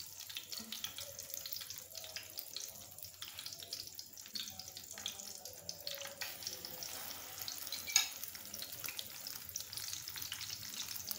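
Egg-coated potato and chicken cutlets shallow-frying in hot oil in an aluminium pan, a steady crackling sizzle. About eight seconds in there is a single sharp click, the loudest sound.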